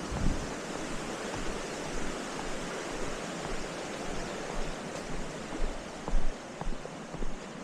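Steady rushing wind noise on the microphone, with a few low buffeting thumps in the second half.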